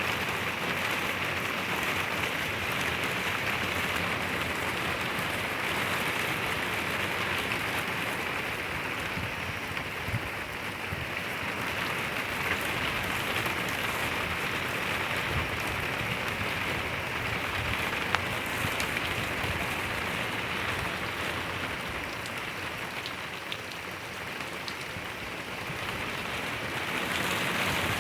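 Steady rain falling, an even hiss with a few scattered louder drops.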